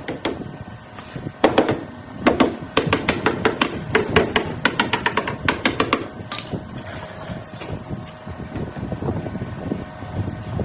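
A run of quick, sharp knocks, several a second, lasting a few seconds, giving way about six seconds in to a rougher, steadier noise.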